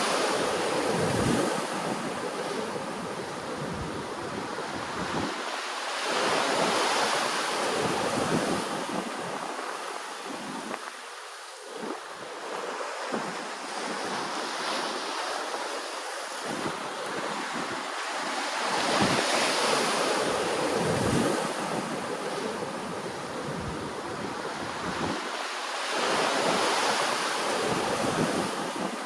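Ocean waves washing in, a rushing hiss that surges and fades about every six to seven seconds.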